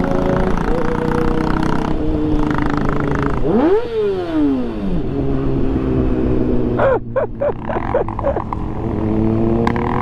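Kawasaki ZX-6R inline-four engine pulling through the revs, its pitch climbing steadily. About three and a half seconds in it revs sharply up and falls away, around seven seconds in there is a quick run of short pops as it eases off, and near the end it climbs again.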